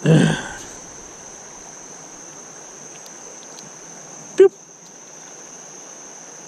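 Creek water running steadily over rocks, with a thin steady high-pitched tone above it. A brief loud sound comes at the very start, and a short sharp one about four and a half seconds in.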